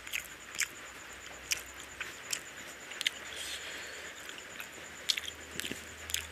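Close-up wet chewing with sharp lip-smacking clicks from someone eating curry and rice. Around the middle comes a soft squishing as fingers mix and tear at chicken curry on the plate.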